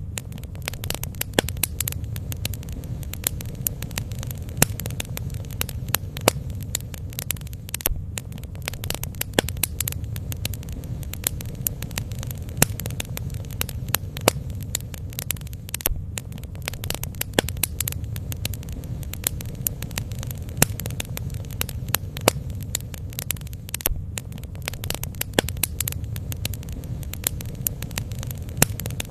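Bonfire crackling, with frequent sharp snaps and pops over a low, steady rumble.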